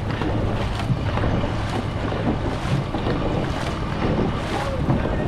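Wind buffeting the microphone over rushing, splashing water as a dragon boat is paddled, with a stroke rhythm coming through about once a second.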